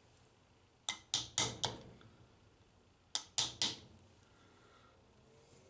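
Hammer tapping a punch against the aluminum drive gear hub of a vending machine rotor: four quick taps about a second in, then three more a little after three seconds. This is peening, driving the hub metal toward the shaft so the rotor gear stops slipping.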